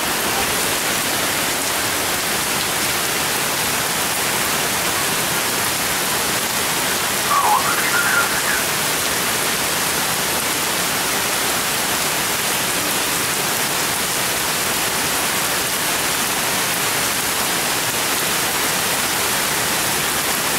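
Heavy rain falling steadily, a dense even hiss. About seven seconds in, a short rising squeak cuts through it briefly.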